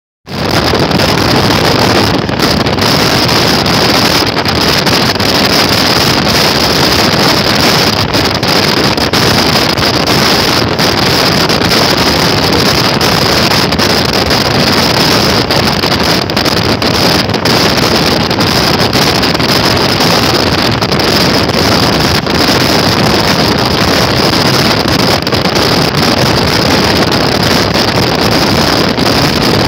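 Steady loud rush of a passenger train running at speed, heard from an open door or window of the coach, with wind buffeting the microphone.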